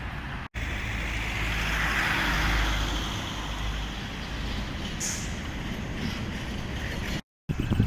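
Street traffic: a vehicle passes close by, its noise swelling about two seconds in and fading over a steady low rumble, with a short hiss about five seconds in. The sound cuts out briefly twice.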